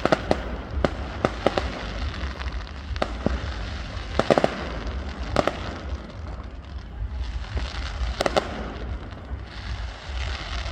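Fireworks going off: irregular sharp bangs and cracks, with quick clusters of pops about four and eight seconds in, over a low rumble.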